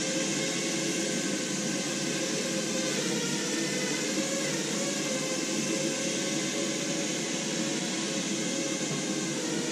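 Quadrotor drone's four propellers and electric motors whirring steadily in flight, with a buzzing hum whose pitch wavers a little as the drone adjusts its motors to manoeuvre.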